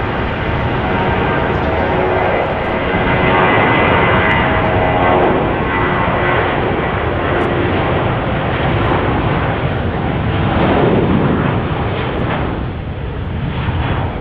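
Jet engines of an Airbus A320 airliner running at close range. The noise is loud and steady, with faint whining tones, and eases slightly near the end.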